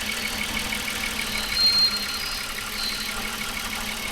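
Toyota Avalon engine idling with a fast, even ticking, getting smoother as the water left in its injectors and spark plugs burns off after misfiring. It briefly gets louder a little under two seconds in.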